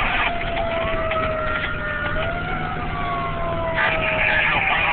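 Fire engine siren wailing, its pitch slowly falling and rising, over the steady rumble of the truck running. A rushing hiss comes in near the end.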